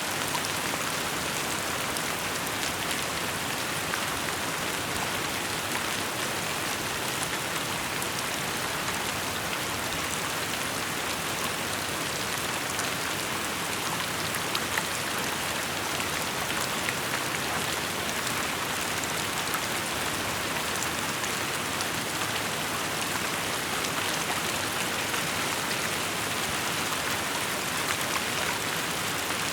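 Steady rainfall: an even hiss of rain with many individual drops ticking on surfaces.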